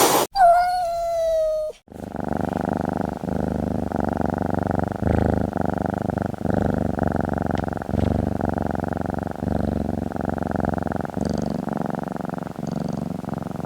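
Domestic cat purring steadily for about twelve seconds, after a short call that slides down in pitch in the first two seconds.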